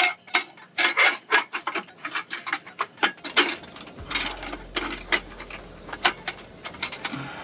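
Ratchet wrench clicking in short runs as it tightens the V-band clamps on an exhaust muffler.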